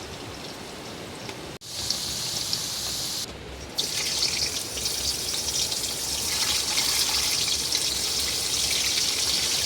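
Heavy rain falling with water running and splashing: a steady hiss. It cuts off abruptly for a moment about a second and a half in, and grows louder about four seconds in.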